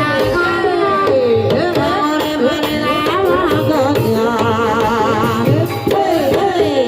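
Javanese gamelan music accompanying a kuda kepang dance: hand-drum (kendang) strokes under a sliding, wavering sung melody.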